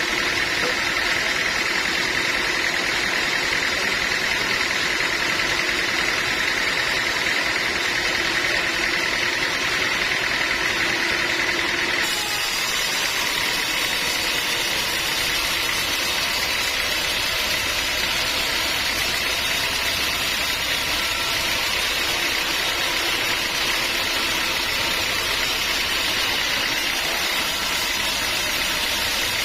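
Sawmill running with a steady mechanical drone. The sound changes abruptly about twelve seconds in, when a steady whine drops away and a more even noise with a low hum carries on.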